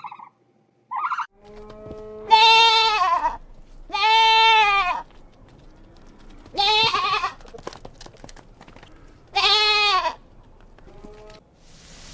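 Goat bleating repeatedly: four loud, wavering bleats of about a second each, a couple of seconds apart, then a short, fainter one near the end.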